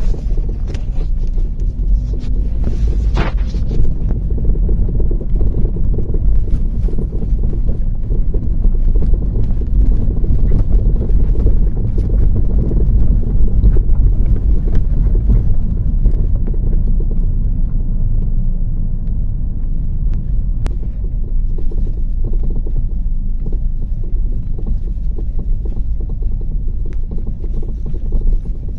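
A 2007 Mazda 3 (BK) being driven, with a steady low rumble of road noise and many irregular short knocks from the rear suspension, which the owner suspects come from worn rear shock absorbers or their mounts.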